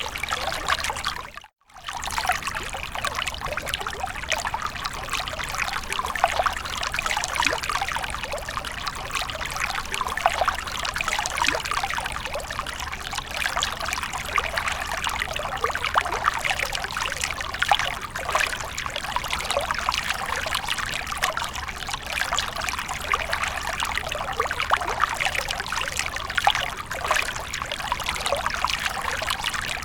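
Water splashing and trickling in a fountain, a steady continuous patter of falling water, briefly cut out for a moment about a second and a half in.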